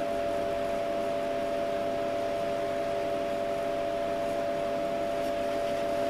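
Cooling fans of bench electronic test equipment running steadily: an even hiss with a couple of steady mid-pitched hum tones.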